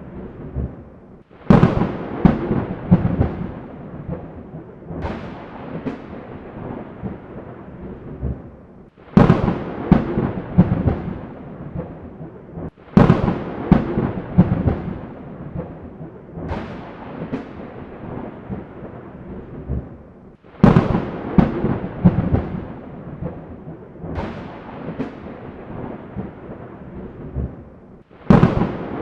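Thunderstorm: a sudden crack of thunder about every four seconds, eight in all, each breaking into crackles and rolling off into rumble, over a steady rain hiss.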